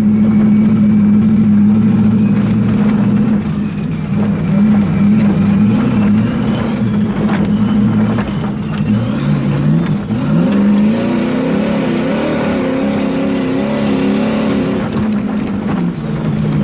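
Turbocharged 454 big-block V8 of a Chevy squarebody truck running hard under heavy acceleration, a loud steady drone whose pitch climbs and wavers from about nine seconds in.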